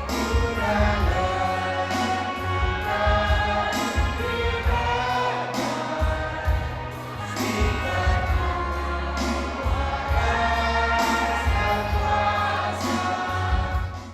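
A group of voices singing a hymn over an amplified accompaniment with a heavy steady bass, cutting off abruptly at the very end.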